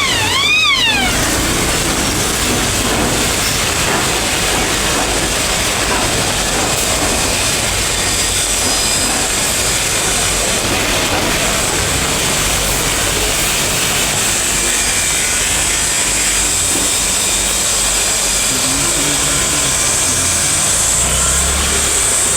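Steady rain noise mixed with street traffic. Near the start come two or three quick, high calls, each rising and falling in pitch.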